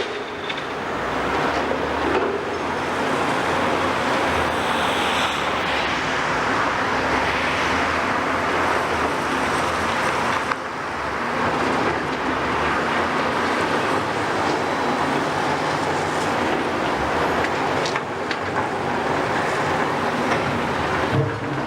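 Heavy demolition machinery at work, a diesel excavator engine running under a dense, steady wash of rattling noise, with a brief dip about halfway through.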